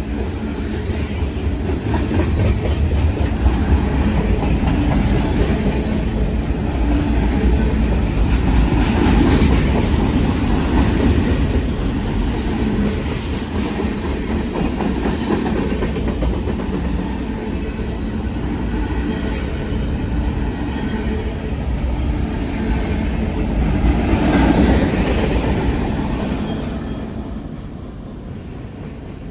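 A train rolling past close by, its wheels rumbling steadily over the rails, swelling twice and dying away near the end.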